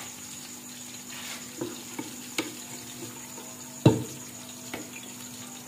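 Onions, garlic and green chillies frying in ghee in an aluminium pressure cooker with a steady faint sizzle, while a spoon stirs and scrapes against the pot. There are a few light clicks, and one loud knock about four seconds in.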